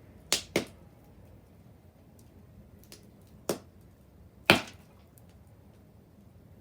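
Wood fire crackling, with four sharp pops of burning wood: two in quick succession near the start, one midway, and the loudest a second later, with faint ticks between.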